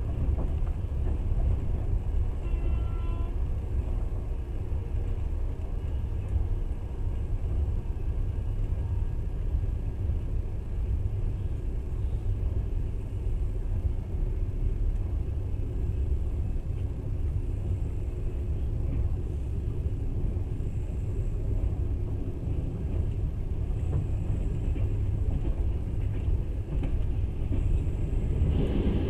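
Steady rumble of a moving passenger train, heard from inside the carriage at the window.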